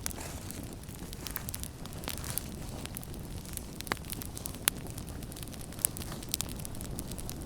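Campfire burning: a steady low rumble of flames with frequent sharp crackles and pops, two louder pops about halfway through.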